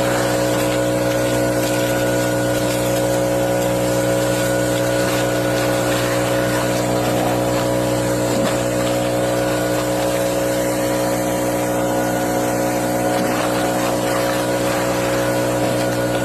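Motorboat engine running at a constant speed: a steady drone that does not change in pitch or level.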